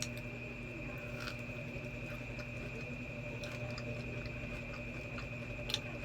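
Faint chewing of a soft, chewy marshmallow-filled cookie, with a few small wet clicks, over a steady electrical hum.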